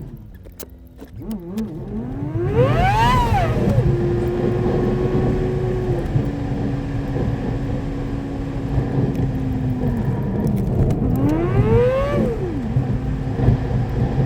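Car engine and exhaust accelerating, sped up to double speed so it sounds higher-pitched than life. The revs climb steeply about two seconds in and drop sharply at a gear change, the car cruises at steady revs, and near the end the revs climb and drop once more.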